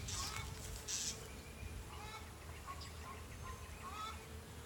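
Honeybees buzzing steadily around an open hive during a frame inspection. A bird calls a few times in short bursts, and there are two brief hissing puffs in the first second.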